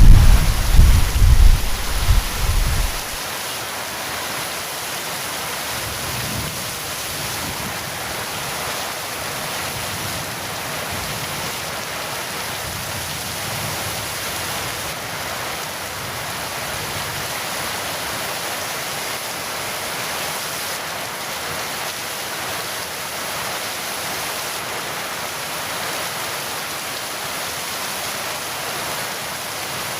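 Heavy rain falling steadily, with the tail of a loud thunder rumble that dies away about three seconds in.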